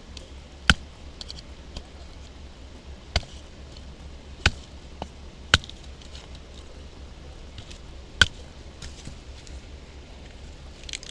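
Batoning firewood: a wooden baton striking the spine of a knife driven into a log, as single sharp knocks at irregular intervals, some strong and some faint.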